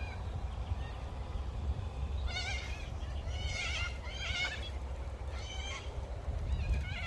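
Birds calling: about four harsh, wavering, bleating calls in the second half, over a steady low rumble.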